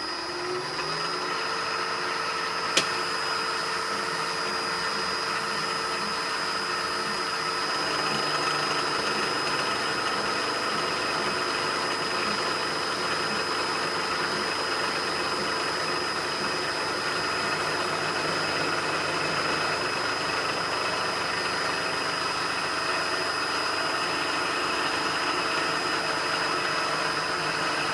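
A metalworking machine tool running steadily through a cut, its motor hum under a steady high whine. It comes up to speed in the first second, and there is one sharp click about three seconds in.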